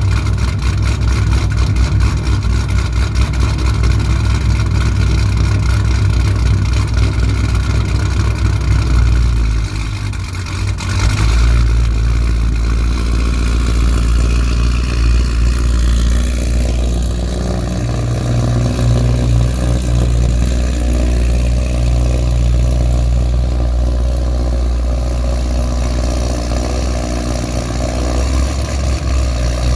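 Cammed LS3 V8 of a 2009 Pontiac G8 GXP idling loudly through long-tube headers, an X-pipe and a 3-inch exhaust, shortly after a cold start. The sound dips briefly about ten seconds in, then carries on with a changed tone.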